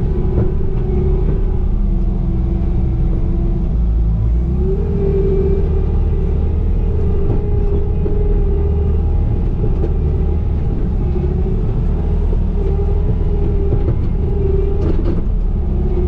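Diesel engine and hydraulics of a Bobcat compact machine working under load: a steady low engine rumble with a hydraulic whine that rises about four seconds in and wavers as the controls are worked, and a few knocks near the end.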